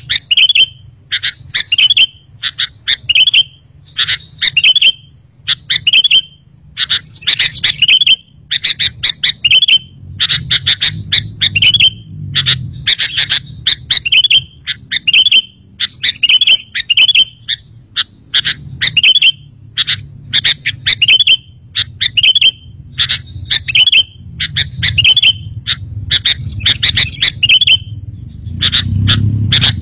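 Sooty-headed bulbul calling over and over in quick, short chirpy phrases, a little more than one a second, over a low rumble.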